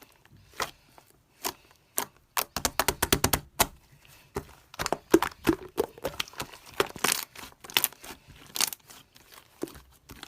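Slime being worked by hand: an uneven run of sticky clicks and pops, with a quick burst of rapid crackling about two and a half seconds in.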